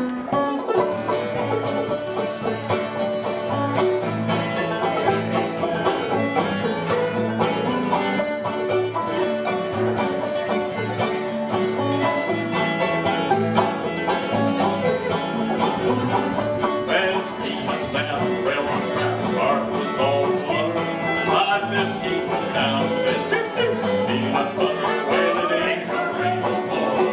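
String band playing an old-time bluegrass tune, with banjo and guitar picking and fiddle over a steady bass beat.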